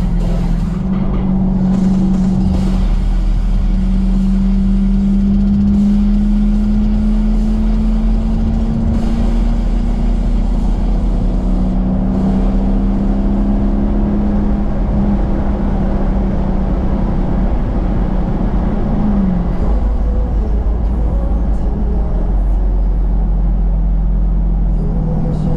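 Dodge Challenger's exhaust droning steadily while cruising on the road. Its pitch climbs slowly for about ten seconds, then drops back as the car eases off.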